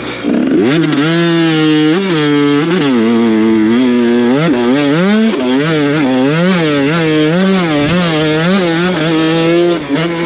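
Two-stroke dirt bike engine with a Mikuni TMX38 carburetor running under riding load, its pitch rising and falling over and over as the throttle is opened and closed.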